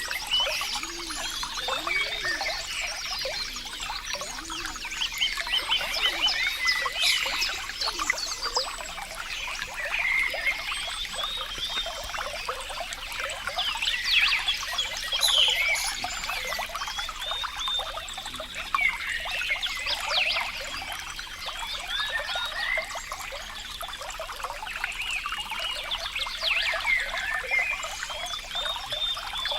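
Running water trickling and gurgling without a break, full of small splashes and bubbling chirps.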